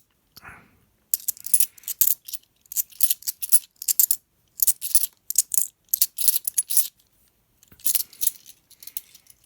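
£2 coins clinking against each other as they are sorted through by hand: quick clusters of metallic clinks with short pauses, a longer pause about seven seconds in.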